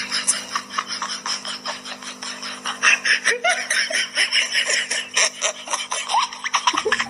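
Laughter in quick, repeated bursts over a steady low hum, with the hum cutting off just before the end.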